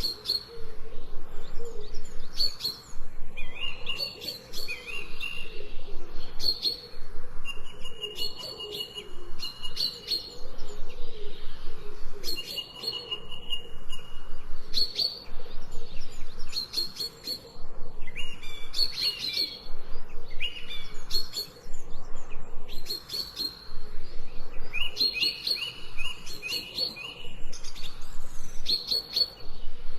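Songbirds chirping and calling over and over, short high trills and whistled notes coming every second or two with brief gaps between.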